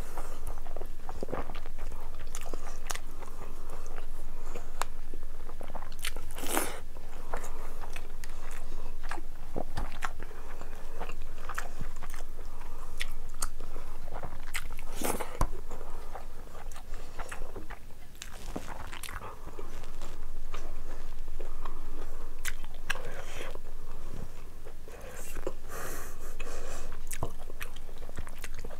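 Close-miked chewing of a mouthful of rice and curry, with wet mouth smacks and many short clicks and crunches.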